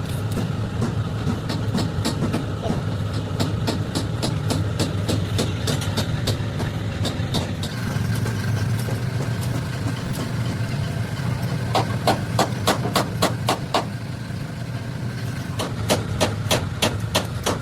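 A steady low drone like a running engine, with runs of rapid sharp knocks, several a second, for much of the first half and again in the last few seconds.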